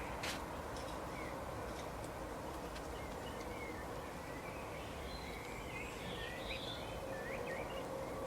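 Steady outdoor background noise with a low rumble and a faint hum, with short bird chirps scattered through it, most of them in the middle and later part.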